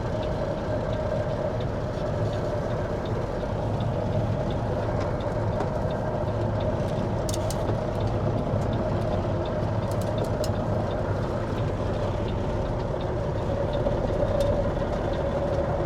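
Caterpillar C15 ACERT inline-six diesel of a Kenworth W900L running steadily at low revs, heard from inside the cab, with a few faint clicks in the middle.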